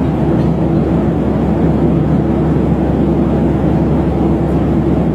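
Steady drone of an airliner cabin in flight: engine and airflow noise, deep and unchanging, with a faint steady hum in it.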